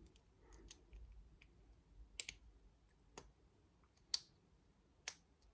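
Faint, sparse clicks of plastic Lego pieces being handled and fitted, about one a second, the sharpest about four seconds in.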